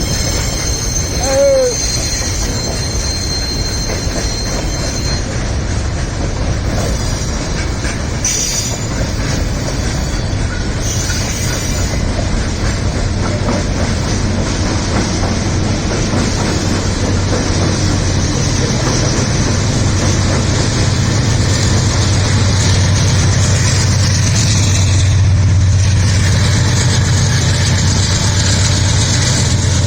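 Loaded freight wagons rolling past, with thin wheel squeal in the first few seconds. Over the second half a low diesel locomotive drone builds, as the helper locomotives pushing at the train's tail draw near.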